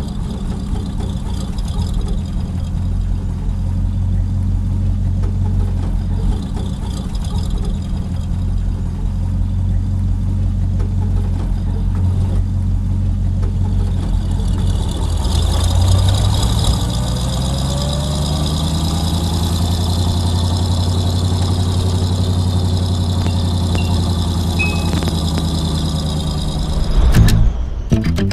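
A vehicle engine running with a steady low hum; about fifteen seconds in its pitch rises, then holds steady again.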